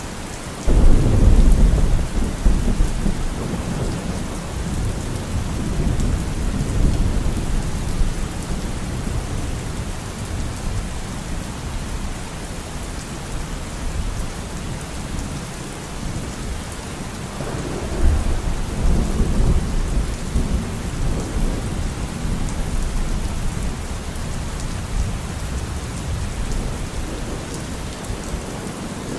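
Steady heavy rain hissing, with a loud low rumble of thunder breaking in about a second in and slowly fading, and a second rumble about two-thirds of the way through.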